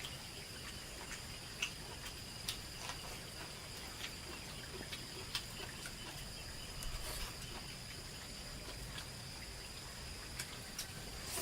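Insect chorus trilling steadily in several high tones, with scattered light clicks and taps.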